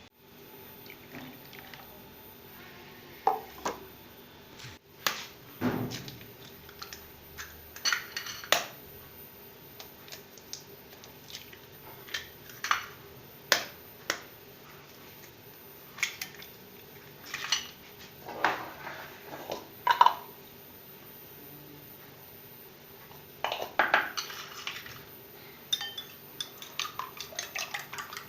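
Dishes and cutlery clinking and clattering now and then as breakfast tableware is handled. Near the end comes a quick, even run of light clinks.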